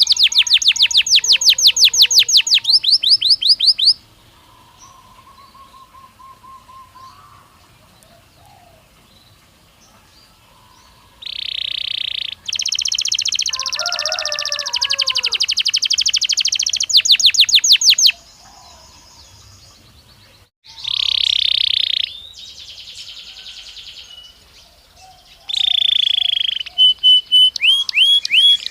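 Belgian canary singing: a loud, very fast trill of repeated sweeping notes that stops about four seconds in. After several seconds of only faint chirping, the song returns in phrases of rolling trills and buzzy notes with short gaps between them, ending in another rapid trill.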